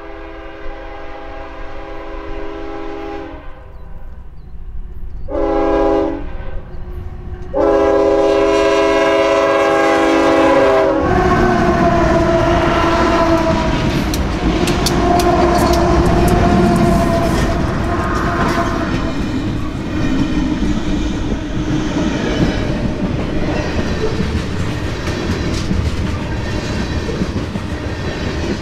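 Diesel freight locomotive's multi-chime air horn sounding the close of a grade-crossing signal: the tail of a long blast, a short blast, then a long one. The locomotives then pass close by with engines running and wheels on the rails, giving way to the steady clickety-clack of freight cars rolling past.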